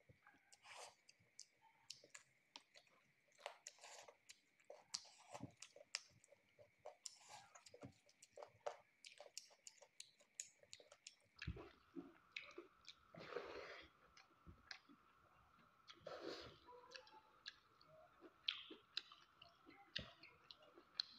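Close-up eating sounds: chewing and lip smacking, with many short irregular clicks from the mouth as hand-fed mouthfuls of rice and chicken are eaten. A faint steady tone runs behind it and drops to a lower pitch about halfway through.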